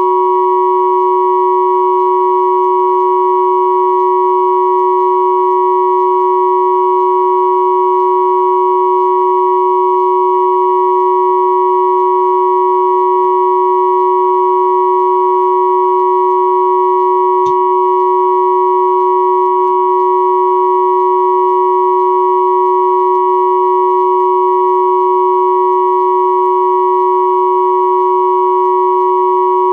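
Three synthesized pure sine tones at 369, 963 and 1111 Hz sounding together as one steady, unchanging chord.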